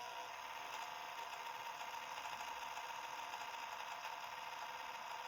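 Small cooling fan on a Raspberry Pi 4 running with a steady whine, making an abnormal noise.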